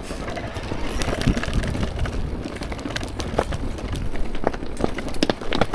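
Mountain bike riding over wet rocks: a steady low rumble of tyres and wind with frequent clicks and knocks as the bike rattles over the rocks.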